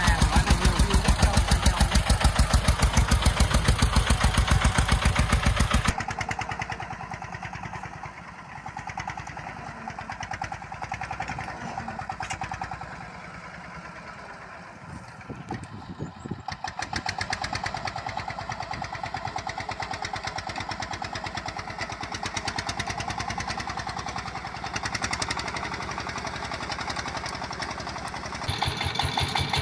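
Diesel walking-tractor engines running with a steady, rapid, even pulse. The sound drops sharply in loudness about six seconds in, dips further in the middle, then jumps louder again near the end.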